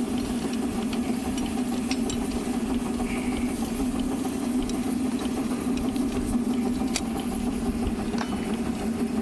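Miniature 7¼ inch gauge steam locomotive rolling gently along the track with the regulator notched right back: a steady, even running hum with a few light clicks scattered through.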